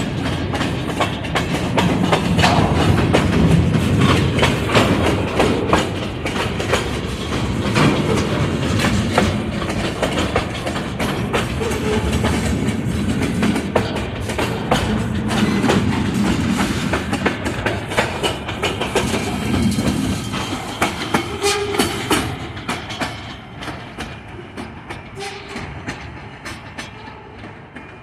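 Wisconsin Southern ballast train rolling past, with a rapid stream of wheel clicks over rail joints above a low rumble. It fades away over the last several seconds.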